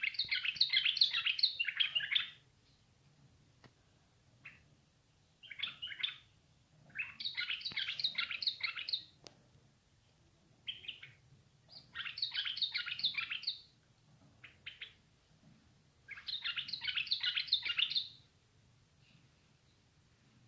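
A bat's rapid, high-pitched chirping calls in bursts of about two seconds, repeated five times with short pauses between.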